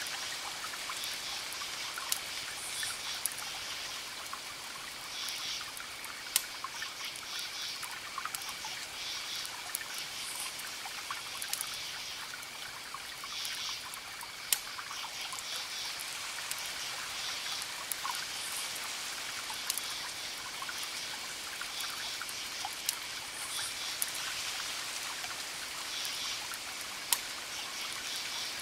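Crackling wood fire: a steady hiss broken by sharp pops every few seconds. Repeated short high-pitched chirping calls run behind it.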